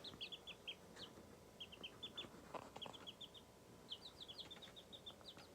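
Young silkie-cross chicks peeping softly: quick runs of short, high peeps, each sliding slightly downward in pitch.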